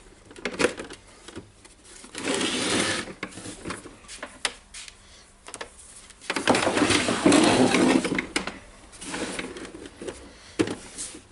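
Plastic housing halves of a DeWalt DC011 site radio being handled and pushed together: scraping and rubbing, with scattered clicks and knocks.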